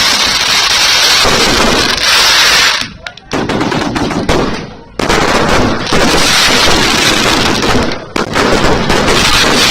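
Fireworks going off in a dense, rapid crackle like machine-gun fire, loud throughout, with brief lulls about 3 and 5 seconds in.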